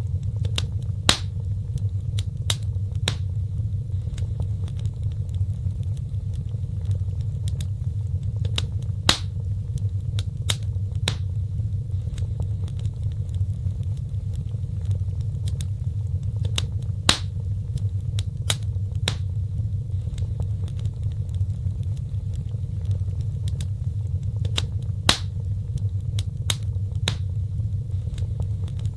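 Wood fire burning in a fireplace: a steady low rumble with sharp crackles and pops. The same pattern of pops repeats about every eight seconds.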